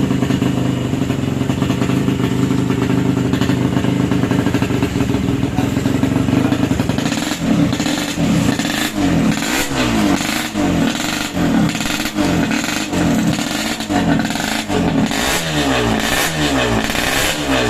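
Freshly rebuilt Yamaha RX-King 135 cc two-stroke single-cylinder engine running at a steady speed, then revved up and down again and again from about seven seconds in.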